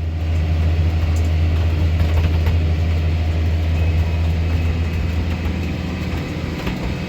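Tractor engine running steadily while pulling a fertilizer spreader across a field.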